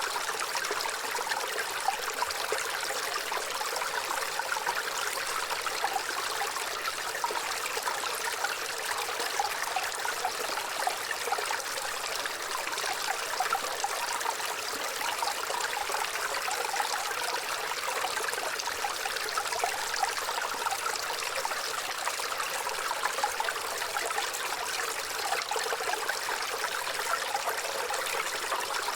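Waterfall: water pouring and splashing in a steady, even rush, mostly in the mid and high range with little low rumble.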